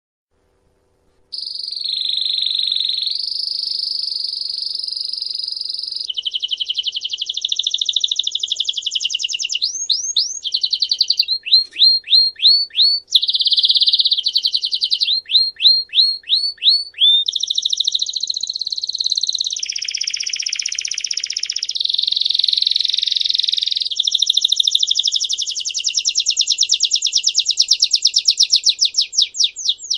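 A songbird singing a long, continuous song that starts about a second in: fast trills, runs of quick repeated sweeping notes, and buzzy rolls, all high-pitched.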